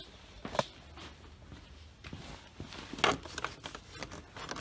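A few sharp clicks and knocks of plastic dash trim being worked at: a fuse panel cover being pried loose. One comes at the start, one just after, and a small cluster about three seconds in.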